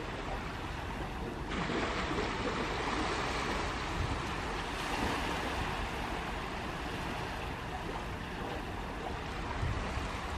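Sea waves washing up a sandy beach: a steady surf hiss that swells about a second and a half in and again around five seconds.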